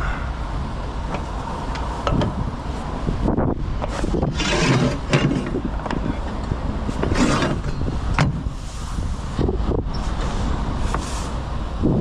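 Wind buffeting the microphone in a steady low rumble, with several short clattering, knocking bursts of equipment being handled.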